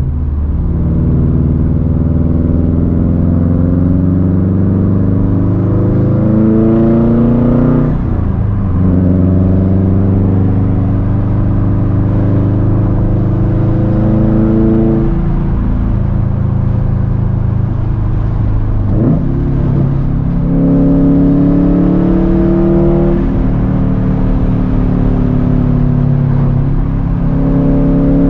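2013 Subaru WRX STI's turbocharged 2.5-litre flat-four engine, breathing through a catless downpipe and a Tomei Expreme Ti titanium exhaust, pulling hard. Its pitch climbs over several seconds and then drops sharply at each gear change, about five times.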